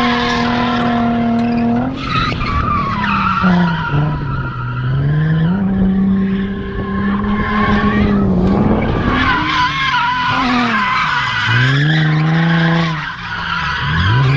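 Drift car engine held high in the revs with tyres squealing and sliding. The revs drop and climb again several times, with quick dips and rises late on.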